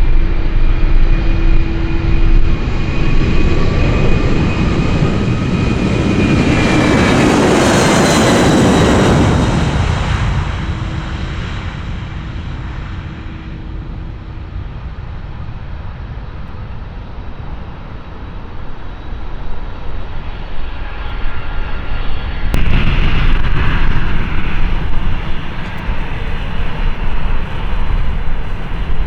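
Jet airliner engines passing close on a takeoff roll: a loud rush that swells to a peak about a third of the way in, with a whine falling in pitch as it goes by, then fades. About two-thirds through, a new low rumble of engines rises suddenly.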